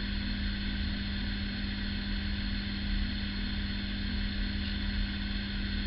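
Shower running steadily, an even hiss of spraying water with a low steady hum underneath.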